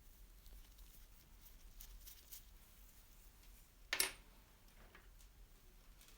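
Quiet handling of small metal parts, with faint light clicks and one sharp metallic clink about four seconds in.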